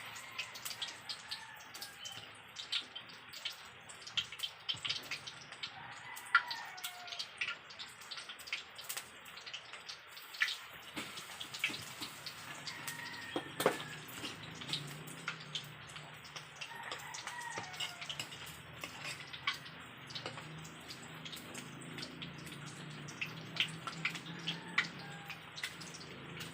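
Coated chicken pieces frying in hot oil in a frying pan: a steady sizzle with many sharp pops and crackles.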